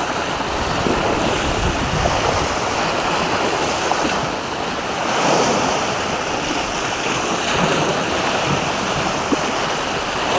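Sea waves washing in a steady rush, with wind blowing on the microphone.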